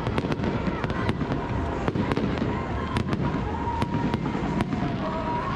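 Fireworks display going off: a rapid, continuous run of sharp cracks and bangs, several a second, over a steady rumble of bursts.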